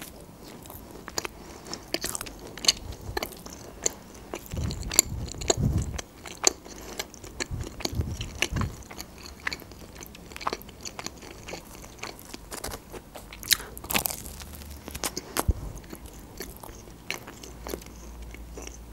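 Close-miked chewing and biting of pizza with chicken nugget pieces: many small crisp clicks and crunches of crust, with a couple of deeper, fuller chewing sounds about five and eight seconds in.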